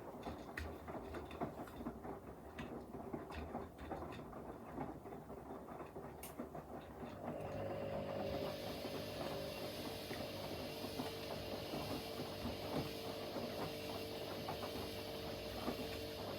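Front-loading washing machines (a Blomberg LWF194520QW and a Hoover H3W04105TARR4-80) running a wash cycle. At first the drums tumble with irregular knocks and clicks. About seven seconds in, a steady motor hum with a high hiss sets in.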